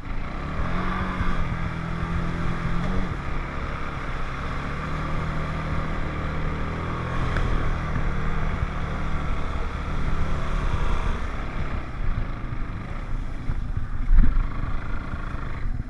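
ATV (4-wheeler) engine running while being ridden, its note shifting up and down now and then, with wind rushing over the microphone. A brief knock comes near the end.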